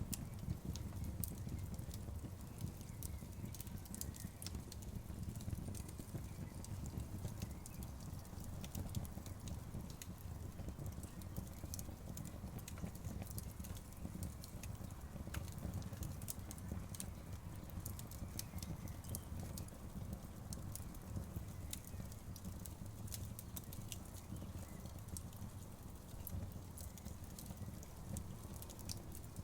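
Outdoor bonfire burning, with a steady low rumble and a dense, irregular scatter of sharp crackles and pops from the burning wood.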